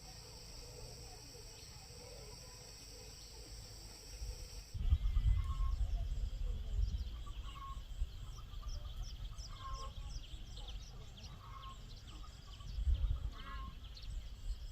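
Farm animals calling in short, repeated calls over a low rumble of wind on the microphone. The calls begin about five seconds in, after a steady hiss.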